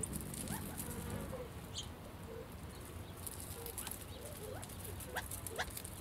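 Small birds chirping around a hummingbird feeder: scattered short rising chirps and high clicks over a low steady background hum.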